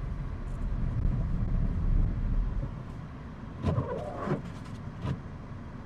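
Inside a Subaru's cabin while driving slowly on a snowy road: a low, steady rumble of engine and tyres that eases off a few seconds in. Three short sounds follow near the end.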